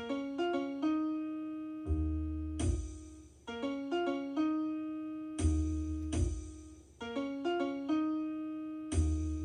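Solo piano playing a repeating phrase. Deep bass notes are struck in pairs every few seconds, and short runs of notes above them ring and fade.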